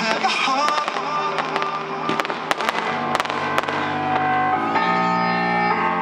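Fireworks going off: a scatter of sharp bangs and crackles through the first few seconds, over loud music playing throughout. The music settles into long held chords in the second half.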